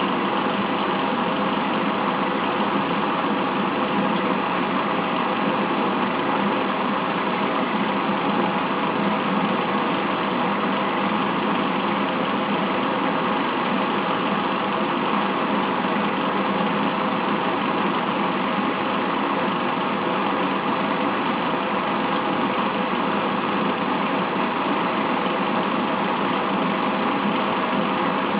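Gamma-type Stirling engine running steadily, a continuous even mechanical whir with a constant hum.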